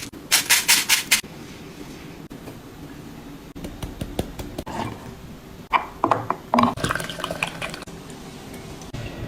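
A utensil clinking and scraping against a dish: a quick run of about half a dozen sharp strokes near the start, then a second cluster of ringing clinks and taps a few seconds later.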